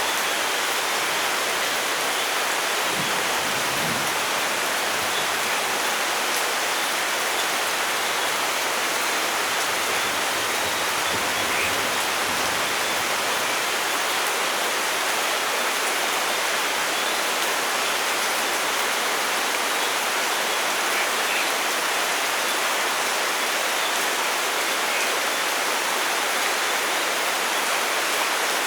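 Steady heavy rain falling in a forest, an even hiss of rain with scattered individual drops.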